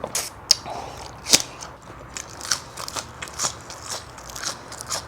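Crisp food being bitten and chewed close to the microphone: sharp crackling crunches, the loudest about a second and a half in, then a run of smaller crunches two or three a second.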